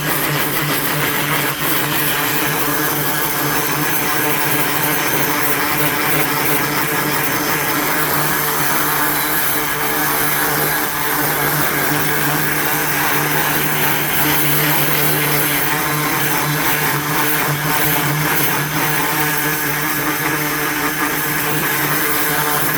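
Ryobi 1900 PSI electric pressure washer running, its motor and pump giving a steady hum under a loud, even hiss of water spray.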